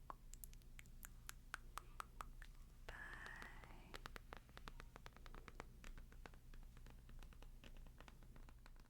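Faint ASMR close-microphone sounds: many soft quick clicks and ticks, with a brief scratchy rustle about three seconds in.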